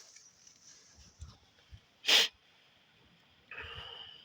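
A person's single short, sharp sneeze-like burst of breath about two seconds in, followed near the end by a quieter, rougher sound lasting under a second.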